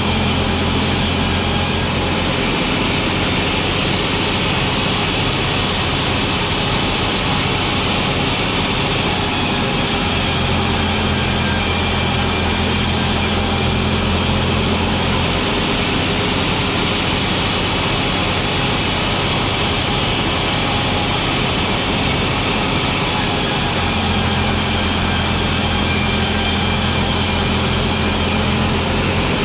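Sawmill machinery running steadily and loudly while boards are sawn from logs. Its low hum and high edge shift every several seconds, about 2, 9, 15 and 23 seconds in.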